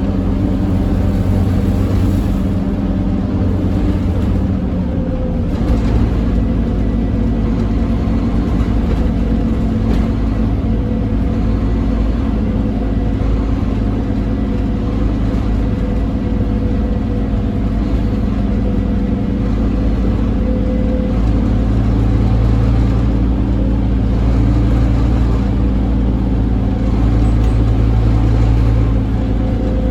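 Scania OmniCity double-decker bus engine running on the road with a steady, loud drone; its note shifts about six seconds in and builds again in the last third.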